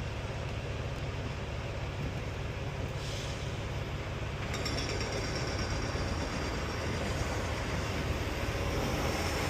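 Semi truck's diesel engine running steadily, heard from inside the cab, with a thin high-pitched tone joining about halfway through.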